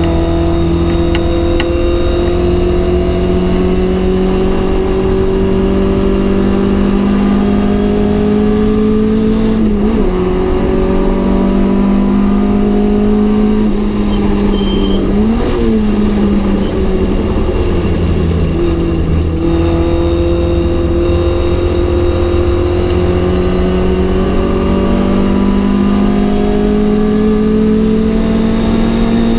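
Mk.1 Ford Cortina GT four-cylinder race engine under hard load at racing speed. Its pitch climbs slowly over long stretches, broken by brief drops or lifts about a third of the way in, around the middle and again soon after.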